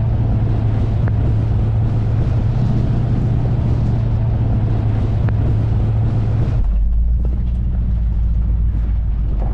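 Chevrolet squarebody Suburban driving, its engine drone and road noise steady and loud; about six and a half seconds in the drone drops to a lower, duller pitch and the hiss above it fades.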